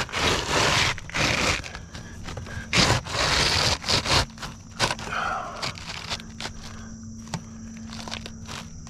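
Scraping and shuffling of roofing work on a shingle roof. Loud, rough scrapes come in the first four seconds or so, then scattered light clicks and taps over a faint steady hum.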